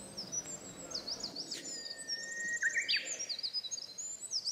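Several small birds singing, with overlapping high chirps and whistles. Around the middle there is a held whistle that steps upward, and a fast trill.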